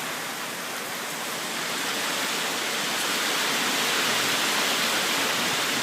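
Steady rush of heavy rain from an approaching typhoon, growing a little louder over the first few seconds.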